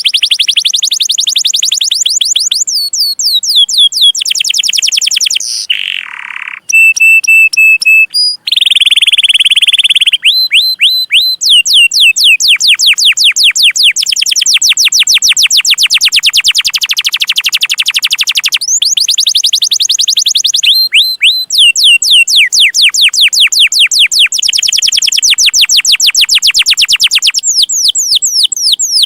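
Domestic canary singing in long fast trills of rapidly repeated high chirps, the 'cuit cuit' rolls, broken by a few short pauses and some held whistled notes.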